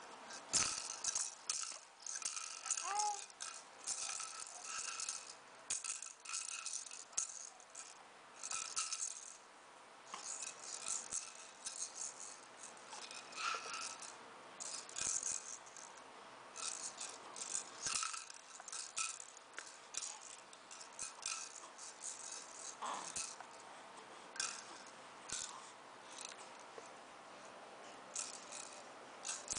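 A toy rattle shaken in short, irregular bursts, over and over, its rattling strongest in the high range.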